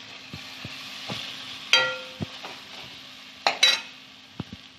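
Cluster beans and almond paste sizzling in a non-stick kadhai as a metal spatula stirs the paste in, with several light knocks of the spatula and two ringing clinks against the pan.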